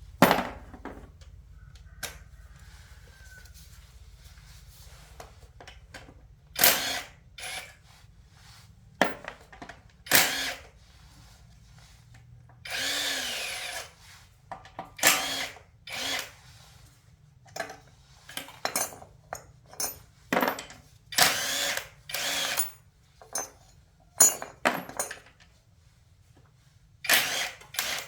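Handheld power drill running in short, repeated bursts, with one longer run about 13 seconds in.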